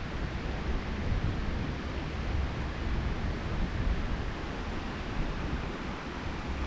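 Steady rushing of a flowing creek, with wind buffeting the microphone in low, uneven rumbles.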